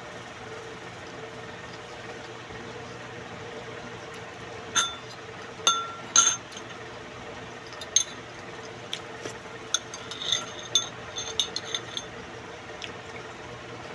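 Eating utensils clinking against dishes: a few sharp ringing clinks from about five seconds in, then a quicker run of them near the end, over a steady low hum.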